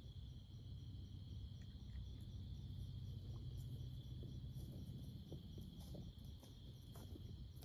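Faint, steady high-pitched insect chorus with a low rumble beneath.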